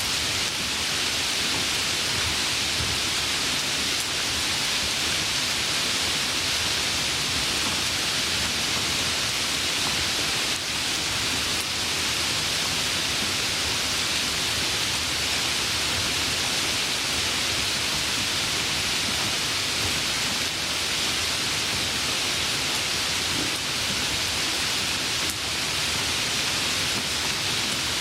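Steady, even rain, a dense hiss of falling drops with no single drops or thunder standing out.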